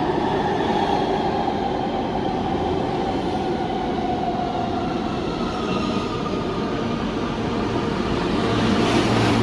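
New York City subway train moving through an underground station: a steady rumble of steel wheels on rail with several high tones slowly drifting in pitch, getting a little louder near the end.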